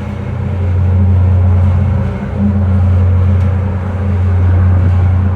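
Strong wind buffeting the microphone on a ferry's open upper deck: a loud, heavy rumble that surges and dips briefly about two seconds in.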